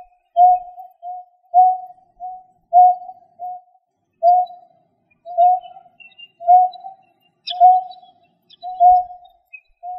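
A bird calling with a low, hollow whistled note repeated over and over. For the first few seconds the notes come in pairs, a longer note then a shorter one; after that they come singly, about one a second.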